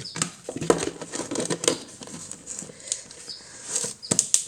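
A coffee scoop and ground coffee being handled in a coffee maker's filter basket: irregular rustling, scraping and light taps, with a sharper pair of clicks near the end.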